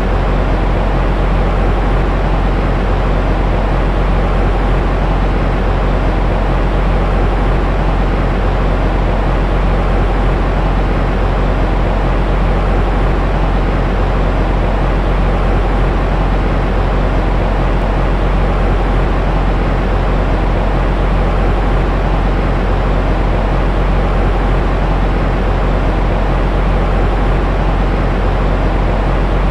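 Continuous white noise for soothing a baby, heavy in the bass and soft in the highs, so it sounds like a deep, even rumble with a faint hum. It never changes.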